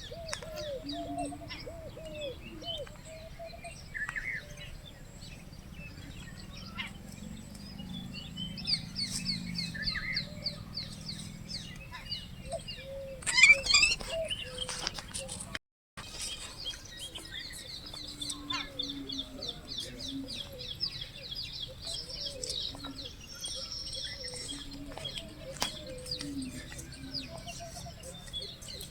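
Mixed birdsong: many short chirps and fast high trills, with lower warbling calls underneath. A brief, louder burst of calls comes about 13 seconds in.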